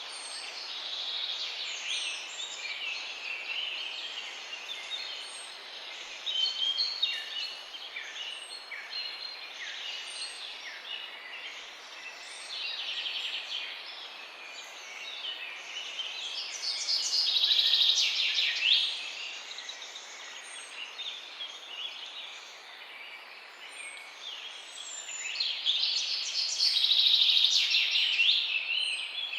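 Several songbirds singing together in a chorus of chirps and trills, with a thin high note repeating every second or two; two louder bursts of rapid song come about halfway through and near the end.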